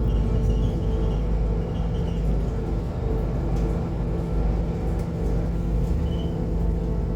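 Scania K280UB city bus running steadily under way, heard from on board: a steady engine drone over heavy low road rumble.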